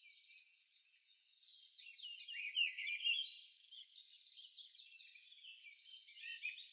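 Faint songbird chorus: several small birds chirping and trilling, with quick runs of rapidly repeated notes.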